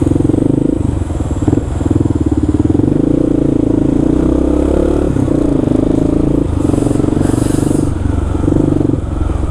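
Kawasaki KLR650 single-cylinder engine running under way, its revs rising and falling with several brief dips as the throttle is rolled off and on through the gears. A short hiss rises over it about seven seconds in.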